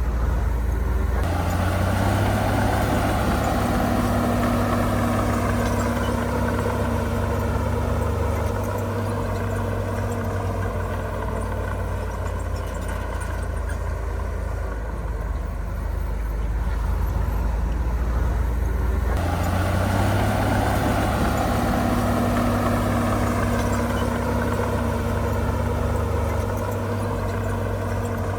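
Heavy diesel earthmoving machine running steadily, with a deep rumble. It goes up under load sharply about a second in and again near 19 seconds in, then eases back each time.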